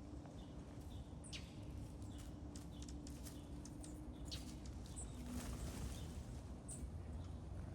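Birds chirping now and then, short high calls scattered over a steady low rumble of background noise.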